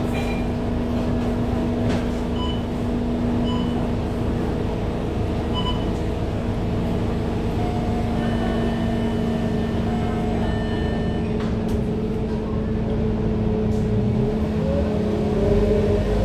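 Scania K230UB single-deck diesel bus running with a steady engine hum, then the engine note climbing near the end as the bus picks up speed.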